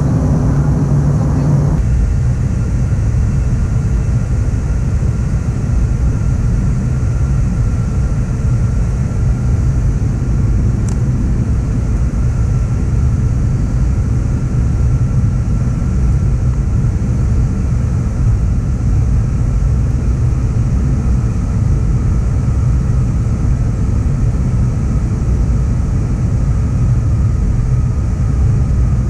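Steady rumble of engine and airflow noise inside the cabin of an Airbus A321 in flight, with a faint steady whine above it; a little of the mid-range noise drops away about two seconds in.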